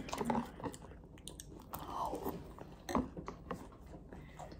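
Close-up chewing and crunching of Frosted Flakes cereal, with a run of short crisp crunches and clicks, the sharpest about three seconds in.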